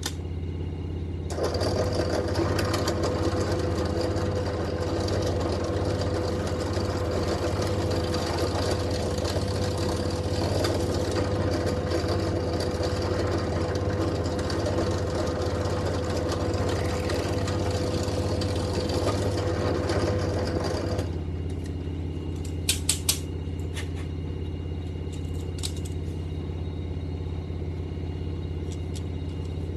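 A drill press motor running. For about twenty seconds a drill bit cuts holes into the back of a plastic cup-holder unit, a louder grinding noise over a steady whine. It then drops back to the motor's hum, with a few sharp clicks a couple of seconds later.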